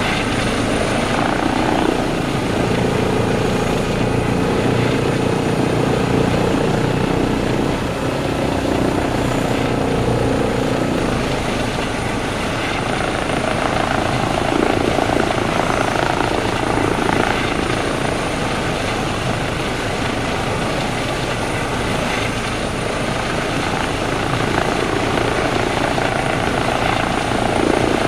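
Eurocopter EC135 P2+ helicopter running loud and steady as it comes in to land: its twin turbine engines and rotors make a continuous noise that swells and eases slightly, with a faint high whine above it.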